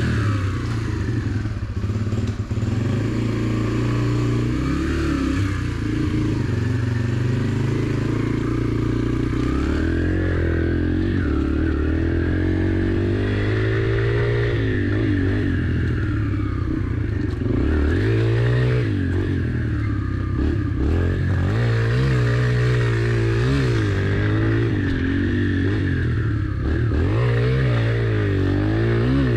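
Yamaha TT-R pit bike's small four-stroke single engine being ridden, its pitch rising and falling over and over as the throttle is opened and closed.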